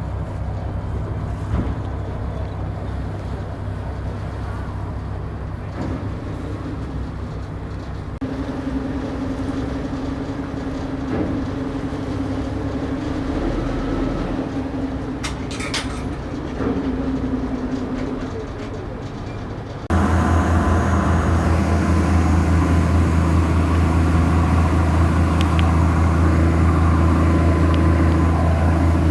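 A steady low engine drone, with an abrupt jump to a louder, heavier drone about two-thirds of the way through.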